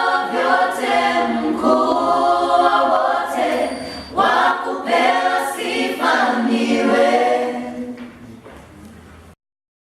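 A vocal group singing in harmony. The singing fades out about eight seconds in, then the sound cuts off abruptly.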